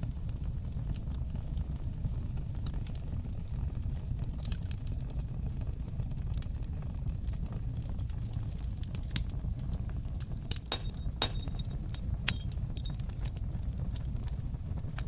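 Fireplace fire burning with a steady low rumble and scattered sharp crackles and pops, the loudest pops coming about two-thirds of the way through.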